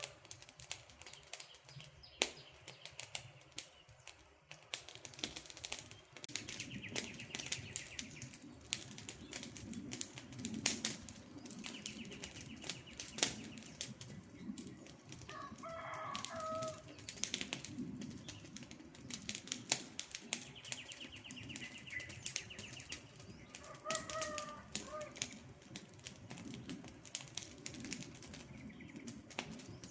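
Campfire burning with irregular crackles and pops from the logs. Birds call in the background, a pitched call about 16 s and 24 s in and short trills now and then.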